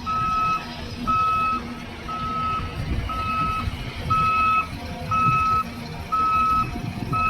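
Reversing alarm on heavy mining machinery beeping steadily, about once a second, over the low rumble of engines.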